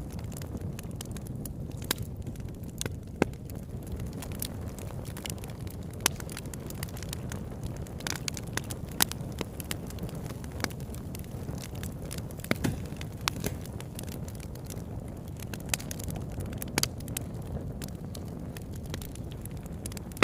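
Campfire burning: a steady low rush of flames with irregular sharp crackles and pops from the burning wood, a few pops standing out louder.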